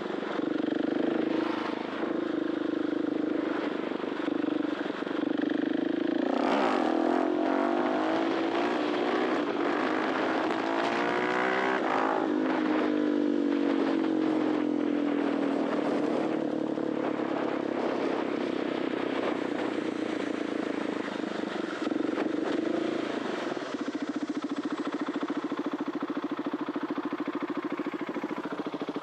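2021 KTM 690 SMC R's 693cc single-cylinder four-stroke engine through an Arrow titanium exhaust, running steadily, then revving up hard for several seconds about six seconds in and easing back down. It settles into steady running and drops to a lower, quieter note near the end.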